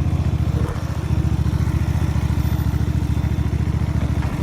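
Hyosung Mirage 250 V-twin motorcycle engine running steadily at low speed, its exhaust pulsing evenly, with a slight dip about a second in.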